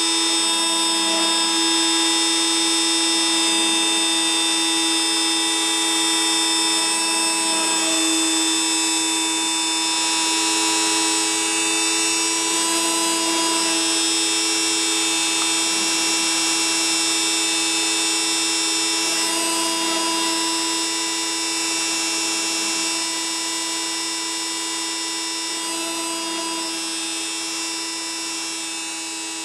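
Small CNC machine running: its motors give a steady electric whine made of many high tones, and the mix of tones shifts every few seconds as it moves. The whine gets somewhat quieter over the last few seconds.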